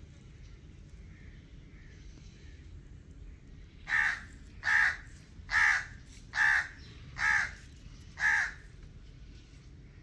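A bird gives six loud calls, evenly spaced a little under a second apart, starting about four seconds in, over a faint steady background hiss.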